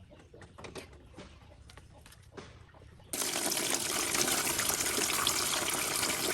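Faint clicks, then about three seconds in a sudden loud, steady rush of gushing water, like a tap or hose running full.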